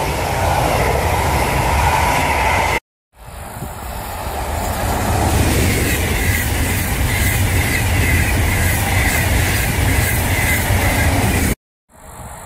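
Passenger trains passing at speed close by: the double-deck coaches of a regional train rushing past, then, after a sudden cut, a long-distance express train's coaches rolling by with a steady rumble and rushing noise that builds up over about a second. Near the end, another sudden cut to a much quieter stretch.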